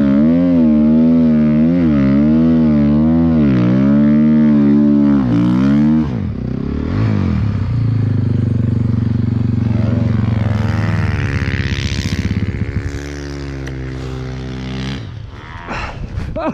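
Honda CRF450R snowbike's single-cylinder four-stroke engine revving up and down while riding. About six seconds in the note changes abruptly to a lower, steadier run.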